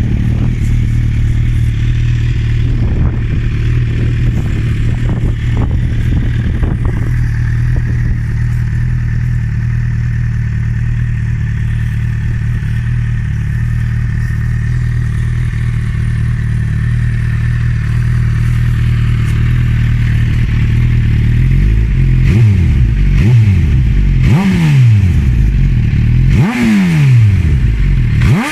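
Suzuki GSX-R1000 K7/K8 inline-four engine with a Bodis aftermarket exhaust, idling steadily, then blipped about five times in quick revs that rise and fall back to idle over the last quarter.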